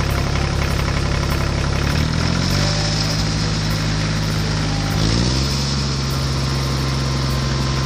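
Tractor engine running steadily, its pitch shifting twice, about two and about five seconds in.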